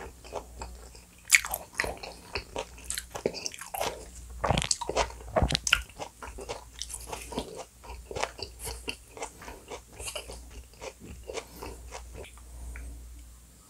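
Close-miked chewing of black bean noodles and crispy fried dumplings: wet mouth sounds with repeated crisp crunches and sharp clicks, the loudest about a second in and a burst a little before halfway.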